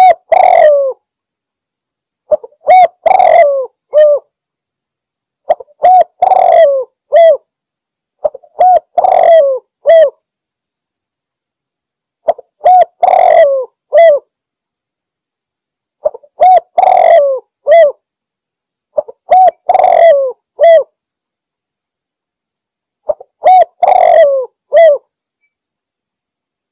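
Spotted dove (tekukur) cooing its territorial call to a rival: a short phrase of several coos repeated about eight times, one every three seconds or so, with silence between phrases.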